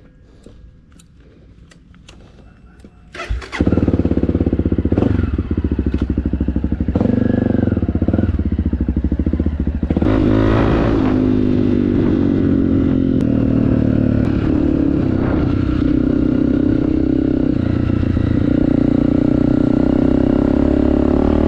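Honda CRF250F dirt bike's single-cylinder four-stroke engine, with an FMF aftermarket exhaust, starting suddenly about three seconds in, revved a few times, then running steadily at higher revs from about ten seconds on.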